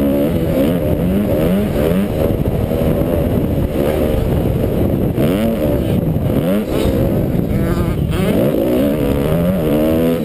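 Kawasaki KX250F single-cylinder four-stroke motocross engine under hard throttle, its pitch rising and falling over and over as the rider opens and closes the throttle and shifts gears, heard up close from the rider's helmet camera.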